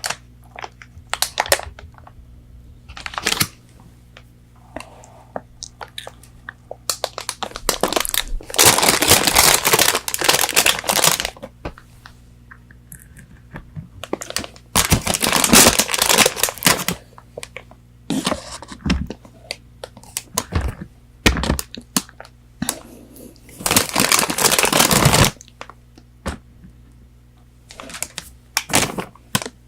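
Close-miked crinkling and rustling of paper fast-food packaging in three long stretches, with many short crisp clicks and crunches of eating in between. A faint steady low hum runs underneath.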